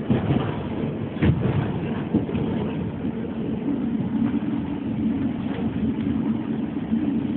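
A train running along the line, heard from inside: steady running noise, two sharp knocks in the first second and a half, and a steady low hum that sets in about three and a half seconds in.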